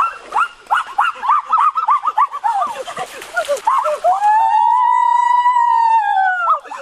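An animal calling in a high pitch: a quick run of short rising-and-falling calls, then from about four seconds in one long drawn-out call that falls away near the end.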